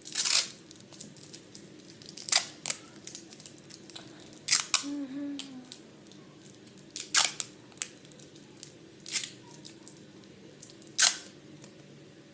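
Sharp clicks, about seven of them at irregular intervals a second or two apart, over a faint steady hum.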